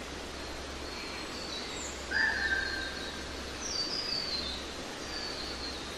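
Birds calling over a steady background hiss of nature ambience. There is one clear whistled note about two seconds in, with thin high chirps before and after, and a short run of high notes stepping downward around four seconds in.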